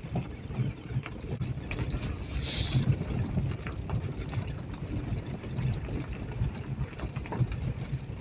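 Wind buffeting the microphone, an uneven low rumble, with scattered small clicks and a brief higher sound about two and a half seconds in.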